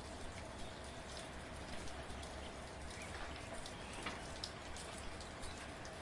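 Steady light rain, with individual drops pattering in small scattered ticks over an even hiss.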